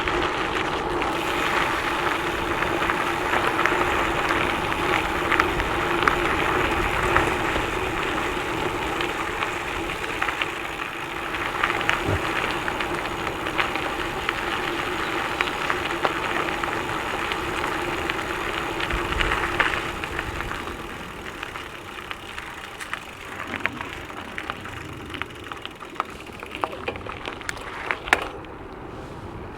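Gravel bike tyres rolling over a gravel trail, a steady crunching rush with many small crackles and pings of loose stones under a steady hum. It eases somewhat about two-thirds of the way through.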